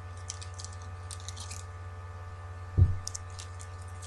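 Foil trading-card pack wrappers crinkling and tearing in the hands in short crackly bursts, the brittle foil coming apart in pieces. A single dull thump about three seconds in.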